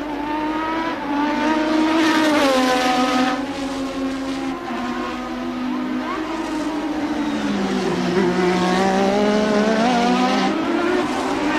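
A 1988 Formula One car's engine at racing revs, its pitch swinging with throttle and gear changes: it falls about two and a half seconds in, drops lower around eight seconds, then rises again.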